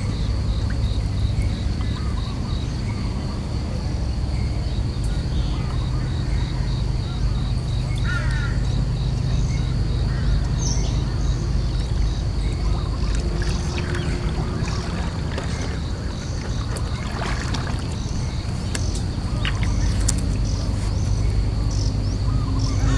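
A steady low rumble throughout, under a high, finely pulsed insect trill, with a few faint scattered clicks and chirps.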